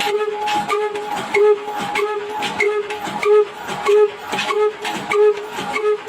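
Stationary diesel oil engine running steadily, with an even beat about twice a second and a steady tone over the beat.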